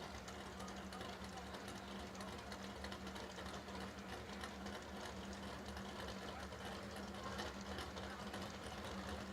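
Faint drag race car engines idling, a steady low hum with a fast mechanical patter.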